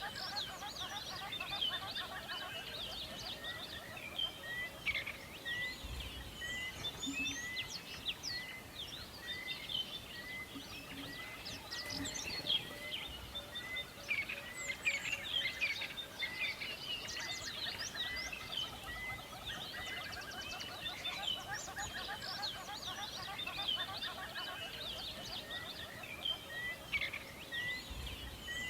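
A chorus of many songbirds chirping and trilling together, with one bird repeating the same short note over and over at an even pace.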